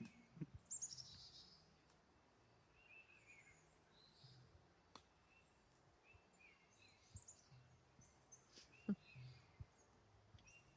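Faint outdoor quiet with small birds chirping on and off, in short high calls. A sharp click comes about five seconds in, and a louder soft knock near nine seconds.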